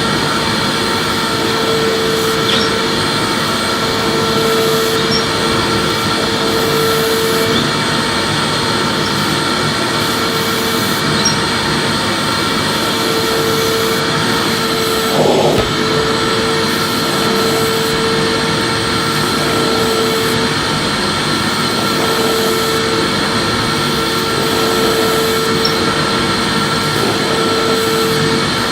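Electric vacuum cleaner running steadily, a constant rushing hum with a motor whine at one pitch, and a brief bump about fifteen seconds in.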